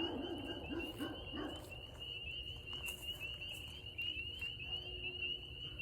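A steady night chorus of spring peepers: many short, high-pitched rising peeps overlapping without a break. A brief low murmur sounds in the first second and a half.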